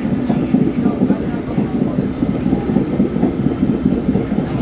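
New York City subway train running, a steady rumble of wheels on rails with a clatter over the track joints.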